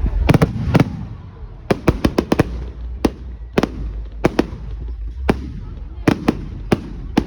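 Fireworks going off: around twenty sharp cracks and bangs at irregular intervals, some in quick clusters, over a steady low rumble.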